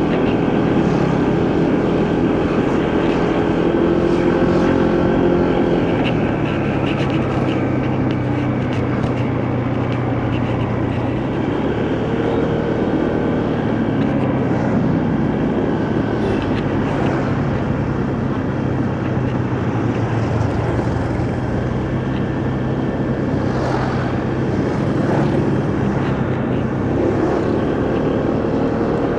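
Motorcycle engine running on the move, under wind and road noise. Its pitch rises and falls a few times as it speeds up and eases off.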